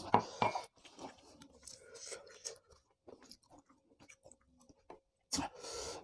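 A man chewing a mouthful of food close to the microphone: wet smacks and small crunches, broken by short pauses. There are two louder breathy sounds, one at the start and one near the end.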